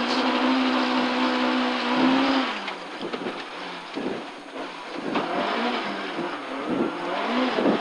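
A rally Ford Escort RS's BDG four-cylinder engine is heard from inside the car on gravel. It holds a steady high note for about two seconds, then drops off as the driver lifts for a tight right hairpin. Gravel and chassis noise fill the quieter stretch, and about five seconds in the revs climb again as the car accelerates away.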